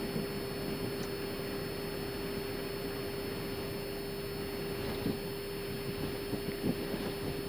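Steady cockpit noise of an Airbus A319 taxiing: an even hiss with a steady hum tone under it. A few light knocks come about five to seven seconds in.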